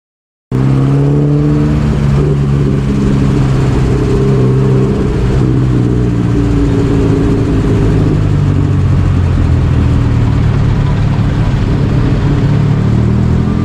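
Motorbike engine running on the move, its pitch rising and falling as it speeds up and eases off, over road and wind noise. It cuts in suddenly about half a second in.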